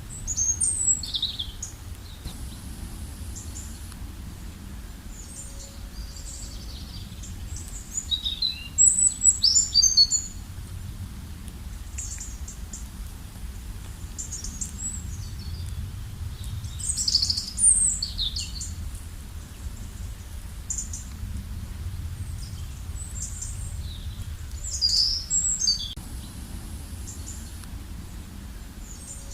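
Birds chirping: bursts of high, quick, downward-sliding chirps, loudest about a second in, around nine to ten seconds and near eighteen and twenty-five seconds, over a steady low background rumble.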